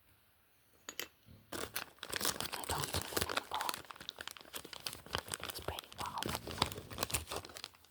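Packaging being crinkled and torn open by hand: a dense, continuous crackle that starts about a second and a half in.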